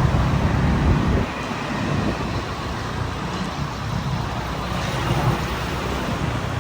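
Street traffic of motorbikes and other vehicles: engines and road noise. A louder low engine rumble in the first second or so falls away, leaving steady traffic noise.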